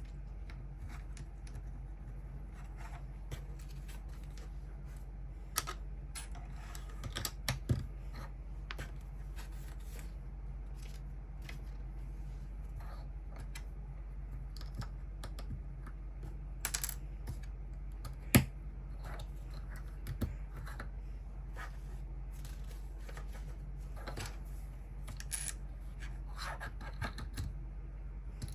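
Lego pieces clicking and clattering as they are handled: scattered, irregular small plastic clicks and knocks, with the sharpest one about 18 seconds in, over a steady low hum.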